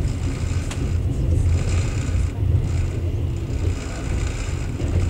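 Passenger train carriage in motion, heard from inside: a steady low rumble of the running gear on the track, with a single sharp click under a second in.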